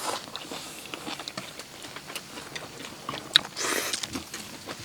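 Someone eating: chewing and small clicks of utensils against dishes, with one sharp click a little over three seconds in and a short breathy noise just after.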